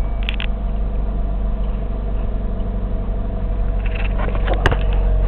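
2002 Chevy Cavalier's four-cylinder engine idling steadily just after a cold start, with a couple of short clicks, one about a second in from the start and one near the end.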